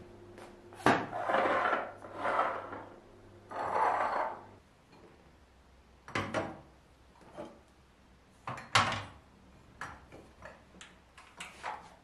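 Household handling sounds: a sharp knock about a second in, two longer noisy scraping or rustling sounds, then scattered clicks and light knocks, with a louder knock near the nine-second mark.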